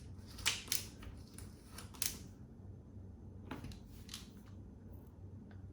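A few faint short scrapes and clicks as a fixing is wobbled by hand into a drilled hole in the wall, most of them in the first two seconds and two more a little later.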